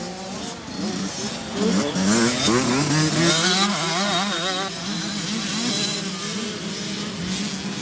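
KTM 65 two-stroke dirt bike engine, its power valve freshly repaired, revving hard up and down on the track, its pitch rising and falling over and over, loudest a couple of seconds in.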